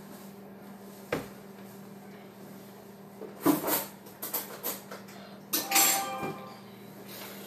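Knocks and clatter of small hard objects being handled and set down, one sharp knock about a second in, a quick run of them a little past the middle, and a clatter with a brief ring near the end, over a steady low hum.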